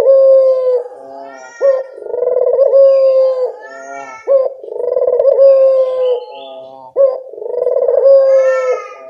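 Puter dove cooing over and over as a lure call: repeated low, slightly falling coos, each opening with a short upward note, about one every couple of seconds.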